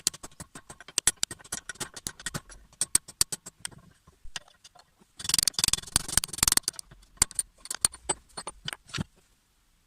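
Rapid, irregular sharp metallic clicks and clinks, with a denser scraping rattle in the middle, as of tools and small metal parts being handled during repair work. The clicks stop about a second before the end.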